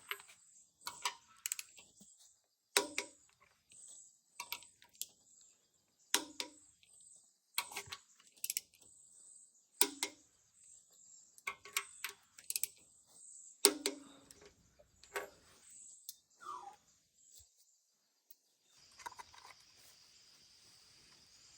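Irregular sharp clinks and knocks, roughly one every second, several ringing briefly like metal struck on metal: tools and parts being handled during engine work. Near the end a steady hiss sets in.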